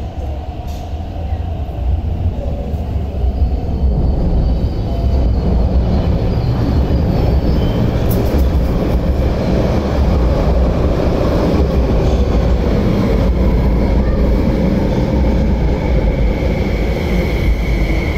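MTR electric train running along the platform: a heavy, steady rumble of wheels on rail that builds over the first few seconds, with a faint high whine coming in near the end.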